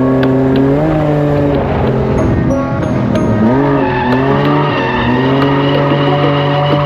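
Drift car's engine held at high revs, its pitch dipping and climbing again several times, with tyres squealing as it slides.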